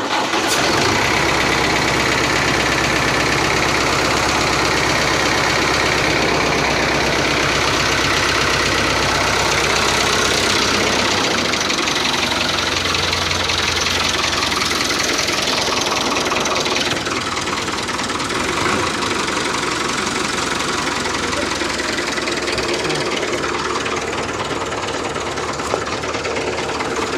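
Engine of a DIY model tractor idling steadily with a knocking beat, shifting in tone partway through.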